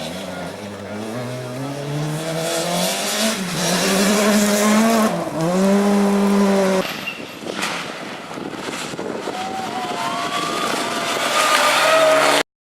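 Rally car engine revving hard under acceleration, its pitch climbing with a brief dip about five seconds in. About seven seconds in the engine note breaks off, then climbs again before the sound cuts off suddenly near the end.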